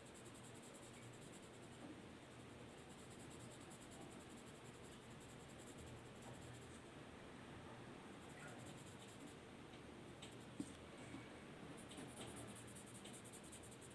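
Faint scratching of a drawing tool on paper over a low room hum, with one sharper click about ten and a half seconds in.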